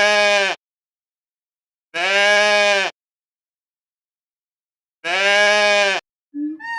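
A bleating farm-animal call, the same one-second call played three times about two and a half seconds apart with dead silence between. Near the end a different, higher-pitched call begins.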